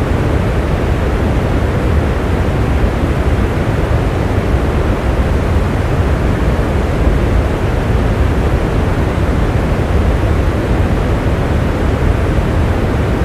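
Steady rain: an even, unbroken hiss with a strong low rumble underneath and no separate drops or thunder standing out.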